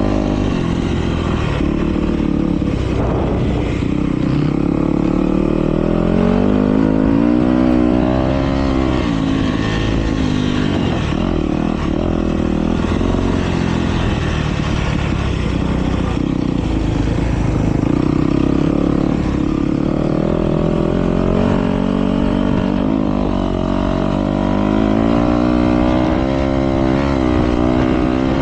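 Motocross dirt bikes racing a heat, engines revving up and dropping back again and again as the riders throttle through the track.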